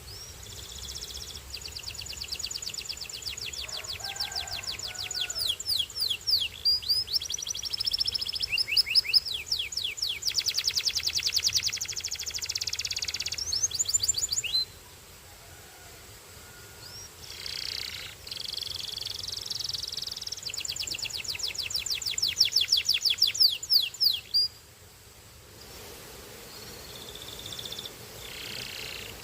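Canary singing: long, high-pitched rolls of rapidly repeated trill notes, breaking off for a couple of seconds about halfway, then a second long roll that stops abruptly near the end, followed by softer, scattered notes.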